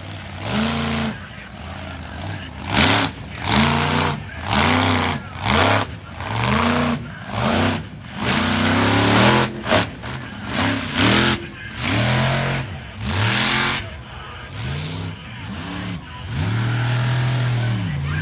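Monster truck engine revved in a string of quick throttle blips, each rising and falling in pitch, about a dozen in a row. Near the end it holds a longer, steadier rev.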